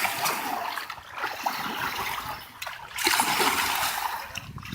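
Kayak paddle strokes splashing through water, in three surges about a second and a half apart.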